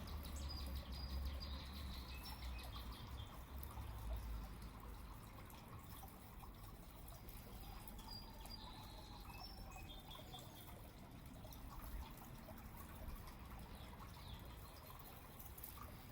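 Faint outdoor ambience with small birds chirping in short high notes now and then, over a low rumble in the first few seconds.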